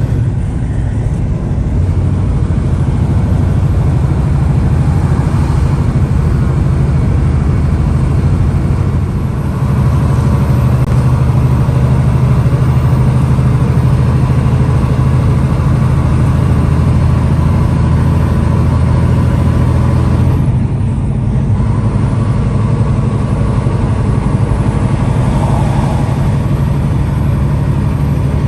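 Semi truck's diesel engine droning steadily under way, with road noise. The engine note changes about twenty seconds in.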